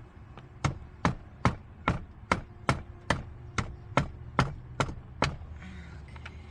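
Twelve sharp knocks at an even pace, a little over two a second, from striking the pickup's center console to work the lid loose.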